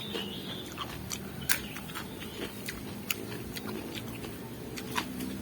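Close-miked chewing of raw vegetables, with irregular sharp crunches scattered throughout.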